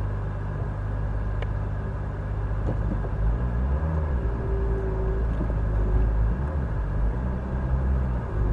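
Off-road vehicle's engine running at low speed on a rough trail, its note rising and falling as the throttle changes. A brief steady whine comes in about halfway through.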